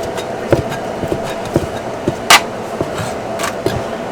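A cleaver chopping on a cutting board, about two strokes a second, with a sharper, brighter knock about two and a half seconds in. A steady hum runs underneath.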